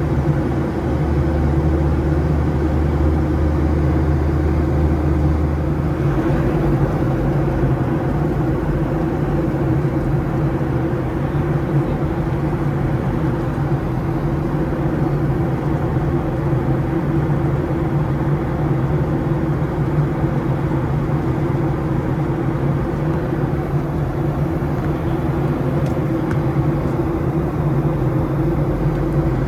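Cabin noise inside a Boeing 737-700 with its CFM56 engines running: a steady loud hum with a low drone over a hiss of air. The deepest part of the hum drops away about six seconds in.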